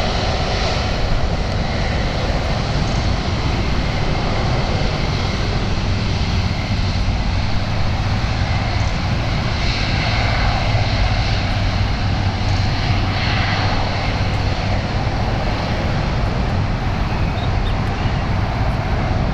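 Airbus A330-200 airliner's twin Rolls-Royce Trent 700 turbofans at takeoff thrust: a loud, steady jet rumble.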